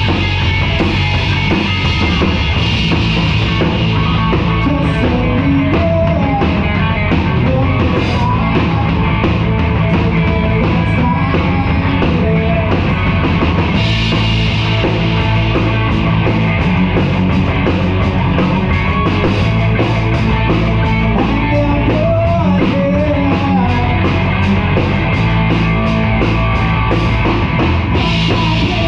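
Live rock band playing loudly: a drum kit driving the beat under guitars, with a voice in places.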